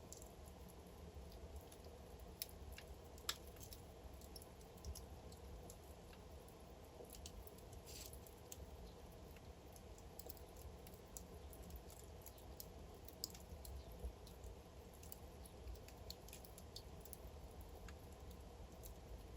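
Wood fire crackling in a fireplace: irregular sharp pops and snaps, a few louder ones standing out, over a soft low rush of burning logs.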